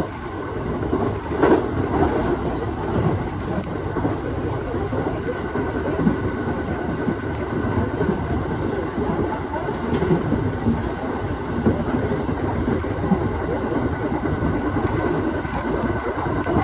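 Aoimori Railway 701 series electric train running, heard from inside the front of the car: a steady running rumble with the clack of wheels over rail joints, a sharper knock about a second and a half in.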